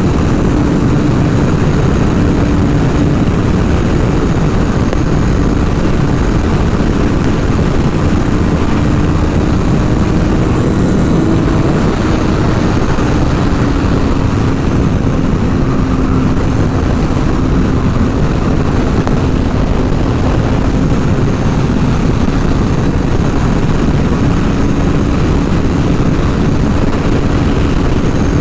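Sport motorcycle riding at a steady speed. The engine holds a near-constant note that drops a little about halfway through, under heavy wind noise on the microphone.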